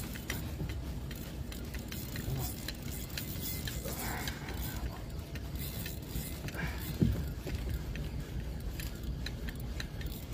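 Fishing reel working while a hooked fish is fought, giving scattered mechanical clicks and ticks, with one sharp knock about seven seconds in.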